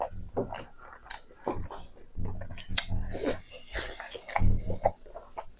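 Close-miked chewing and biting of pork: wet mouth smacks and clicks at an irregular pace, with a few soft low thuds between them.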